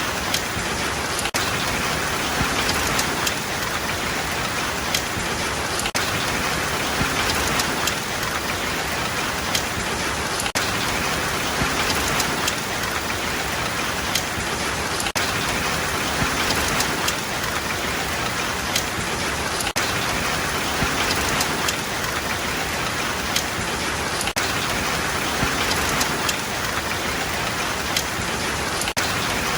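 Steady rainfall: a dense, even hiss of rain with scattered sharper drop hits now and then.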